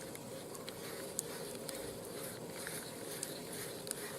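Wood fire crackling in a barbecue grill: a steady hiss with scattered small sharp pops.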